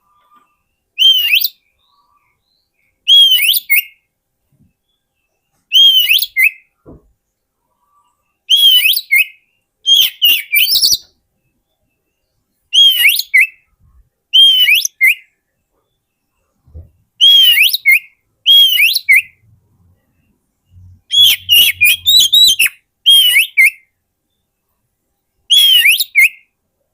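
Oriental magpie-robin (kacer) singing: a dozen or so short, loud, clear whistled phrases, each with a swooping up-and-down note, repeated every second or two with silent gaps between them.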